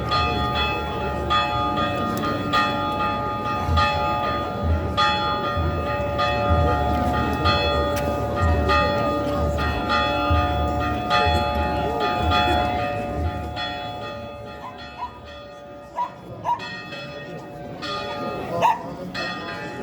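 Church bells ringing, struck repeatedly with long ringing tones. The ringing thins out about fourteen seconds in, and a dog barks a few times near the end.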